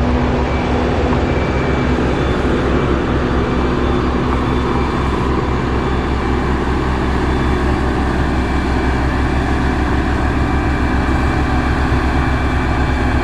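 Heavy road-construction machine engine running steadily: a constant low rumble with a few steady whining tones, unchanging throughout.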